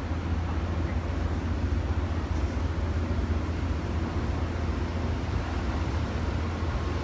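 Diesel locomotive idling with a steady low rumble.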